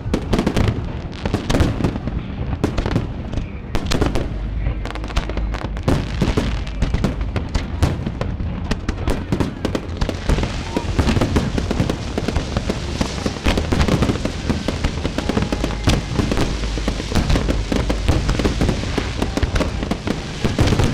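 Aerial fireworks display: many shells bursting in quick succession with bangs and booms, and from about halfway a dense crackling fills in between the bursts.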